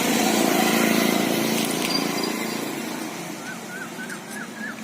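A road vehicle goes by, loud at first and fading away over the first couple of seconds. Then a bird calls a quick run of about seven short repeated notes, roughly three a second.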